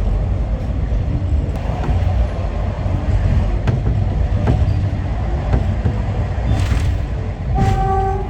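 Passenger train running along the track with a steady low rumble and scattered sharp clicks of the wheels. A short pitched tone sounds near the end.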